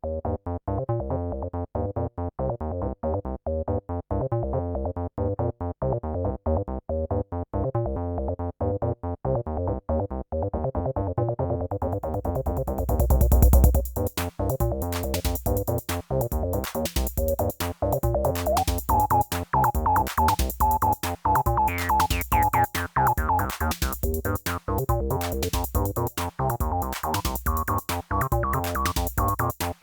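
Sequenced acid bass lines from Behringer TD-3-MO and TD-3 303-style monosynths playing a repeating pattern. About twelve seconds in, drum machine hi-hats come in, with a low swell that leads into regular drum hits. From then on a resonant filter squelch rises through the pattern.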